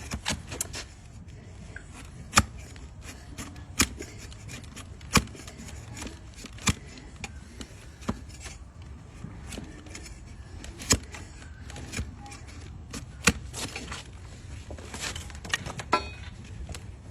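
Hoof-trimming tool working a donkey's hoof: a series of sharp cutting or striking clicks, about one every second and a half, over a steady low background noise.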